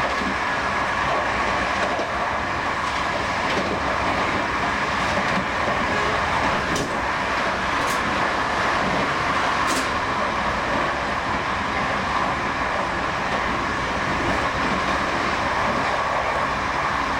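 Steady running noise of a train on the rails, heard from on board, with a steady hum throughout. Partway through, another train passes on the adjacent track, and a few sharp clicks are heard.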